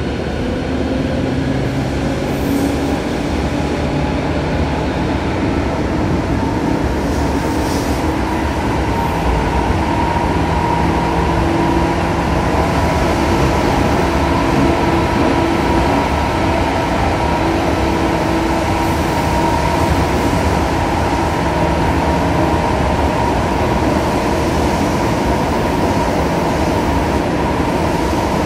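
Cabin running sound of a Tobu 9000 series electric train: a steady rumble of wheels and traction motors with a few steady tones over it. It grows a little louder over the first ten seconds, then holds.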